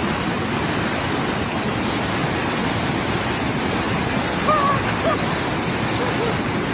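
Dunn's River Falls cascading water rushing steadily, with a few faint short cries over it about two-thirds of the way through.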